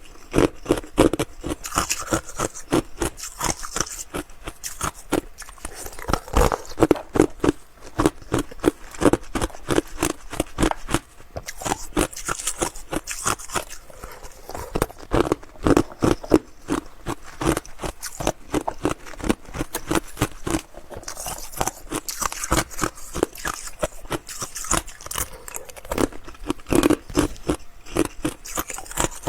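Ice being bitten and crunched between the teeth, close to the microphone: rapid, crisp crackling bites in bursts, with short pauses.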